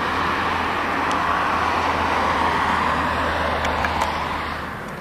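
Airbus A340-300's four CFM56 turbofan engines at takeoff thrust: a loud, steady rush of jet noise over a low drone, beginning to fade near the end.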